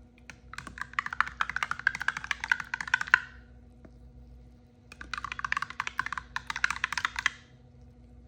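Plastic packaging crinkling as it is handled, in two bursts of about three seconds each with a short pause between.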